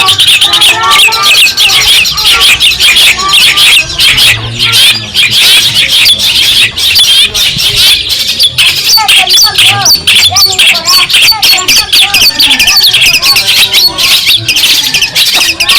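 Long-tailed shrike (cendet) singing loudly and without pause: a dense, rapid stream of chattering, squawking notes.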